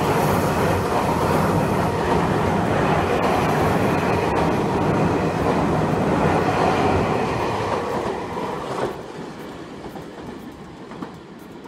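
Tokyu 4000-series electric commuter train running past at close range, a steady rumble of wheels on rail with a few light clacks. The noise fades from about eight seconds in as the last cars go by.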